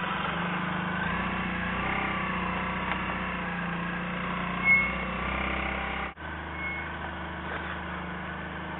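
Motorcycle engine running steadily, with road and traffic noise. About halfway through there is a short high beep, the loudest moment, and the sound drops out for an instant just after six seconds.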